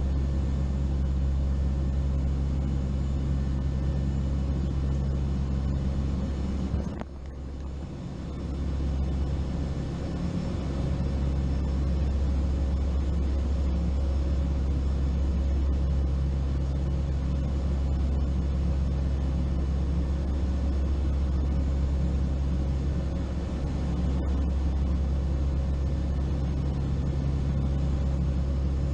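Steady drone of a turboprop aircraft's engines and propellers heard inside the cabin, a constant low hum with a few fixed tones; it briefly drops away about seven seconds in, then returns.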